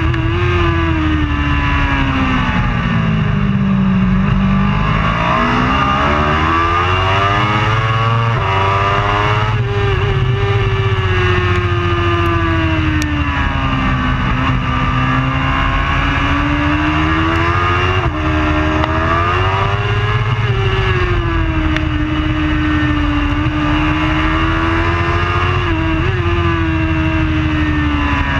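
Superbike racing motorcycle engine at race pace. Its pitch dips sharply and climbs again several times as the rider shuts off, brakes, shifts gears and gets back on the throttle through the corners.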